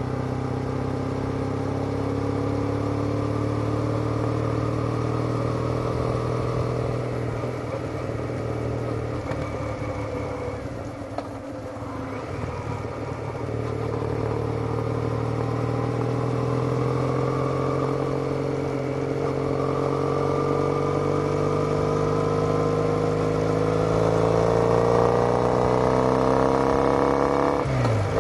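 Triumph Bonneville's parallel-twin engine through TOGA silencers, heard from the riding position while under way. The exhaust note eases off around ten seconds in, then pulls with a slowly rising pitch, and a quick gear change comes near the end.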